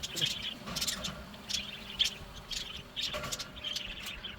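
Cockatiels chirping, a run of short repeated calls a few times a second.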